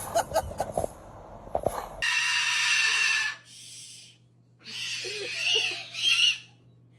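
Two harsh, hissing bird screeches, the first about two seconds in and the second shorter pair of cries near the middle, following a few light clicks and knocks.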